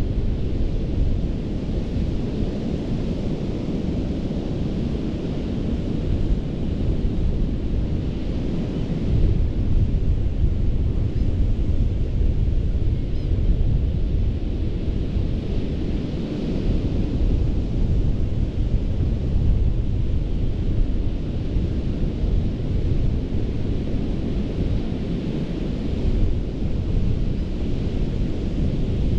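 Ocean surf washing onto a sandy beach: a hiss of breaking water that swells about every eight seconds over a constant heavy low rumble.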